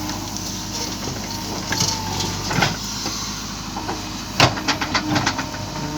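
A heavy vehicle's engine running steadily, with sharp metallic knocks over it: a few about two seconds in, then a quick run of about six starting about four and a half seconds in.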